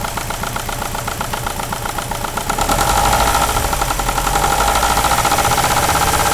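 Subaru EJ20 turbocharged flat-four in a Bugeye WRX running, with a fast, steady knock that sounds like rod knock. The noise is traced to a bad timing belt tensioner. It gets louder about two and a half seconds in.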